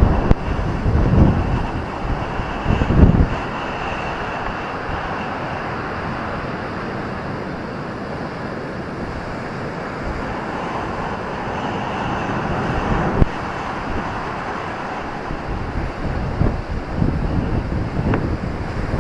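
Ocean surf washing steadily on a beach, with wind buffeting the microphone in the first few seconds and a swell of surf rising about halfway through.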